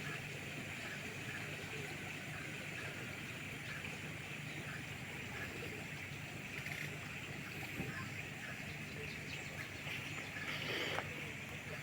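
Outdoor ambience: a steady low hum under a constant high-pitched drone, with faint scattered bird calls.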